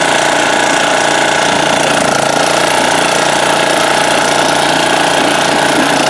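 1987 Honda HRA214 walk-behind lawn mower's engine running steadily at a constant speed.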